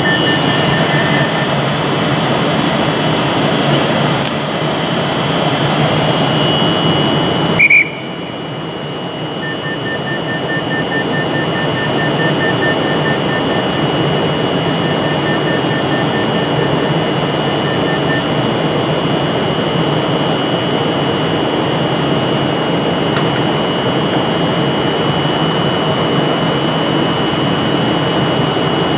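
Class 390 Pendolino standing at a platform with its electric equipment running in a steady hum and a high whine, while the door warning sounds a rapid even beeping, briefly at the start and again from about ten seconds in for about eight seconds as the doors lock for departure.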